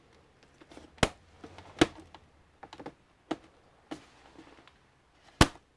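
Irregular sharp clicks and taps of hard plastic and metal parts being handled during the disassembly of an all-in-one desktop computer, with about five louder knocks among fainter ones.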